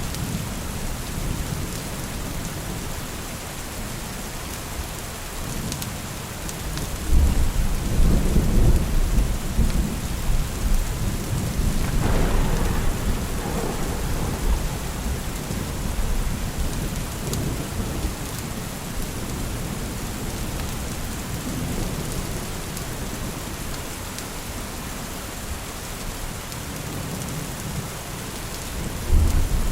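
Steady rain with rolling thunder: a low rumble breaks in about a quarter of the way through and rolls on for several seconds, a second roll follows soon after, and another sudden rumble starts near the end.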